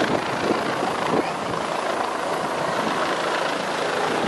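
Helicopter flying low overhead, a steady dense noise with a crowd's shouting mixed in.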